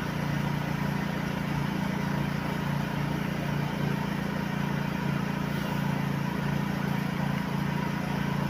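Engine idling steadily, a constant low hum with no change in speed.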